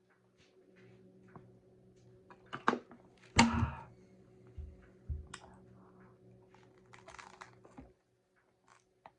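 Close-up biting and chewing of a crunchy hard-shell taco: scattered small crackles, one loud crunch about three and a half seconds in, and a couple of dull thumps just after it.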